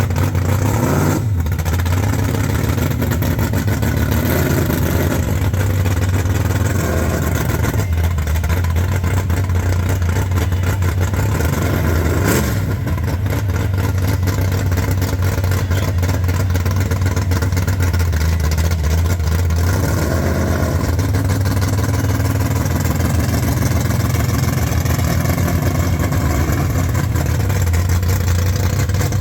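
Very loud hot rod Mustang engine idling with a heavy, steady low rumble, revved briefly a few times.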